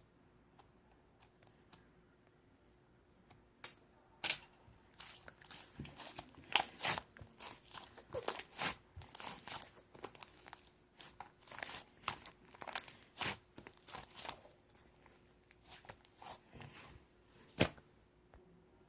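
Slime being squished and stretched by hand, crackling and popping in quick runs of small sharp clicks. The clicks are sparse at first and thicken after a few seconds, with one louder snap near the end.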